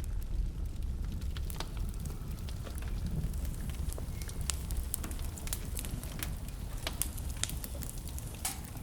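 Wood fire crackling, with scattered sharp pops and a louder snap near the end, over a steady low rumble of blizzard wind.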